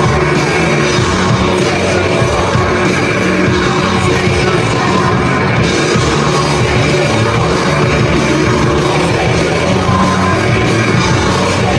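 A live rock band playing loud, dense amplified music, with singing over the instruments.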